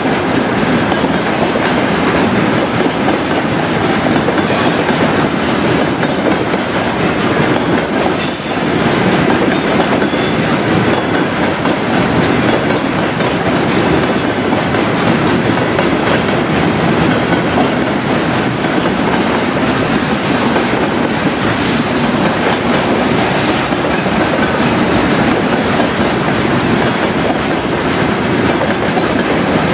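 Freight train of covered hopper wagons rolling past: a loud, steady noise of steel wheels running on the rails, with a few faint, brief high squeals about eight to ten seconds in.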